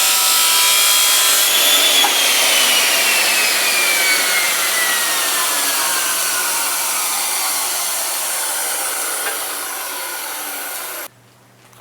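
Power saw cutting a length of 3/4 by 1/8 inch flat bar stock. A loud, rough cutting noise runs with a whine that falls slowly in pitch, and both stop abruptly near the end.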